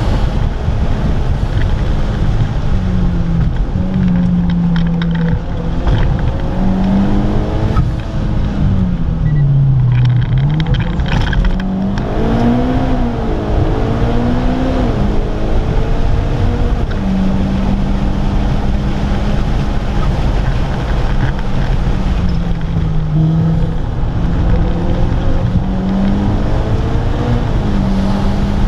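A car's engine heard from inside the cabin while being driven hard on a race track. Its pitch holds steady for stretches, then falls and climbs again as the driver lifts, brakes and accelerates through corners, over a constant rumble of road and wind noise.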